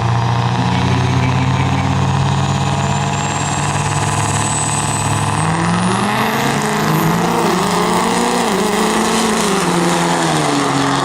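Lifted diesel pickups, a Duramax-powered GMC against a Dodge, on nitrous in a drag race. The engines hold a steady drone for the first half, then rise and dip in pitch through the run, with a high whistle climbing in the middle.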